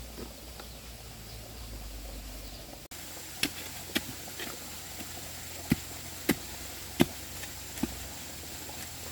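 A series of sharp knocks, about seven over five seconds and irregularly spaced, starting about three seconds in, over a steady background hum.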